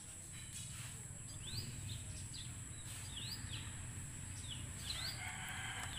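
A small bird chirping again and again in short rising-and-falling notes, over a steady high hiss and a low background rumble.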